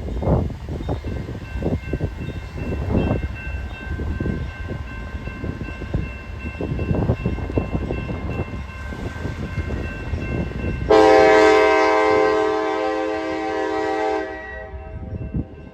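Strong wind buffeting the microphone in gusts, then about eleven seconds in a locomotive air horn sounds one long blast of about three seconds that is the loudest thing heard.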